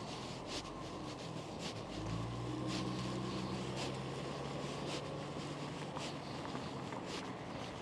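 Footsteps at a walking pace, a soft step about once a second, with a vehicle engine humming low from about two seconds in.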